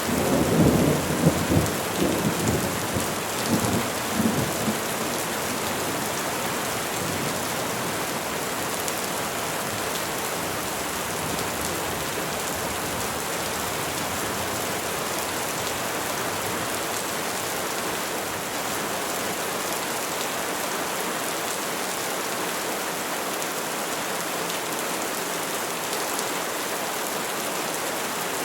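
Steady rain falling on trees, an even hiss throughout. A low rumble of thunder rolls through the first four or five seconds, then fades back into the rain.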